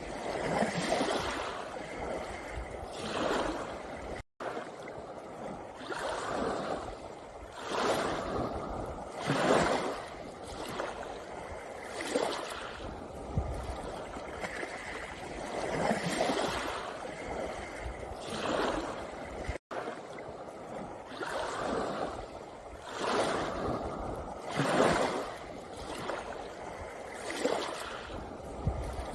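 Small sea waves breaking and washing over a pebble beach, swelling and drawing back every two to three seconds. The sound cuts out for an instant twice.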